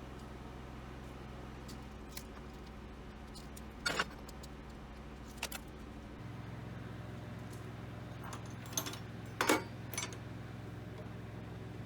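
A steady low motor hum that shifts to a different pitch about six seconds in, with several light metallic clinks over it, the loudest near the end.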